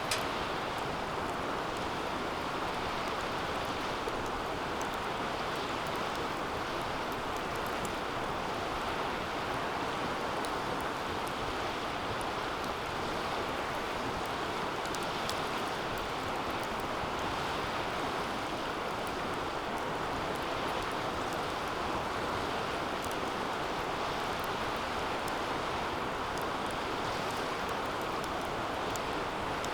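Wood fire burning hard in a DOD Mecha-Moe Fire 2 fire pit: a steady, even rushing sound with a few scattered sharp crackles and ticks.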